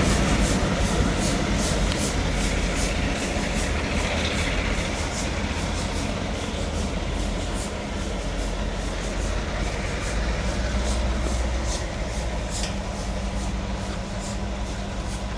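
A train on the move: a steady low engine hum with a quick, regular ticking over it, slowly fading.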